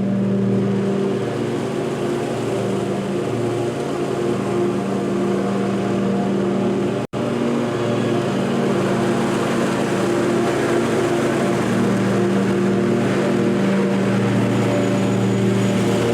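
Small petrol engine of lawn equipment running steadily at constant speed, with a brief total dropout about seven seconds in.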